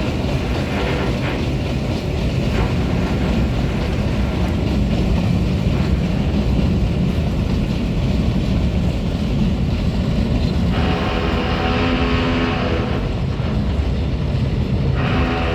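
Freight train of tank wagons rolling past, a steady heavy rumble of wheels on rail. In the second half a pitched engine tone rises in twice, each time for about two seconds.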